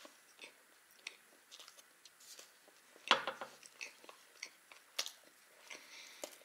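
Close-miked chewing and wet mouth clicks of a person eating a slice of cheese-topped baked pie, with small scattered smacks throughout. A louder knock comes about three seconds in, and a sharp click about five seconds in.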